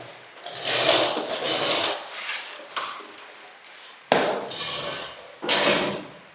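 Hand work on a car's front end: parts and tools being handled, with scraping and clunking and one sharp knock about four seconds in.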